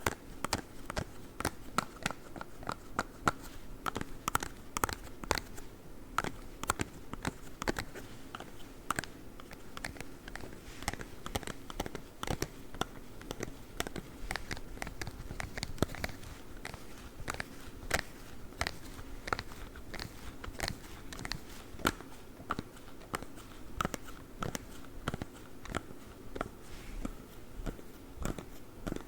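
Claw-tipped ASMR gloves scratching and tapping close to the microphone: a continuous run of irregular sharp clicks and scratchy crackles.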